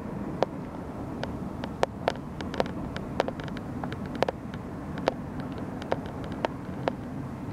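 Passenger train hauled by an electric locomotive running at a distance: a steady low rumble, with sharp clicks at uneven spacing, about two a second.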